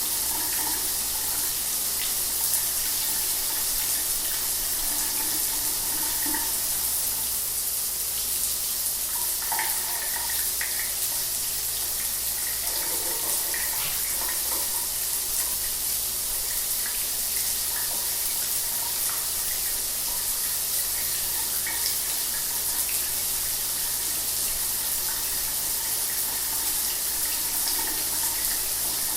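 Shower water running steadily: a constant hiss of spray with small splashing flickers.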